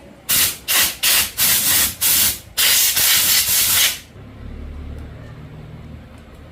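A hissing spray jet let off in about six short bursts, the last one longest, then stopping; a faint low hum carries on after.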